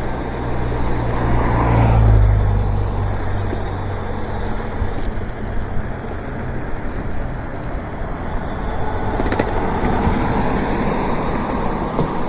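Road noise heard from a moving e-bike on wet pavement: a steady rumble and hiss of tyres, wind and traffic, swelling as a vehicle passes about two seconds in and again around ten seconds.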